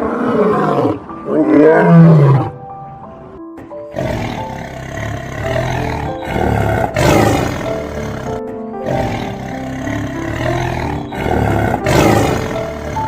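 A big cat roaring, with two loud gliding roars in the first two and a half seconds, over background music that carries on through the rest.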